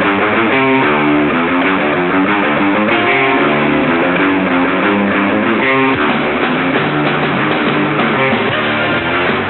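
Hard rock song playing, led by guitar over bass, at a steady loud level. It sounds dull, with all the highs cut off, as from an old VHS tape.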